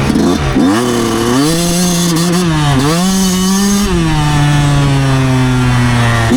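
2009 Yamaha YZ125 two-stroke engine running under the rider's throttle: the revs dip and pick up twice, then ease off about four seconds in and hold steady.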